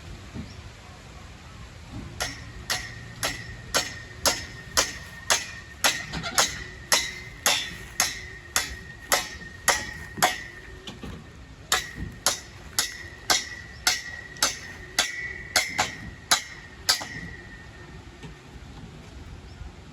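Steady hammering on metal, about two blows a second, each with a ringing note that builds up over the series; it pauses briefly about halfway and stops a few seconds before the end.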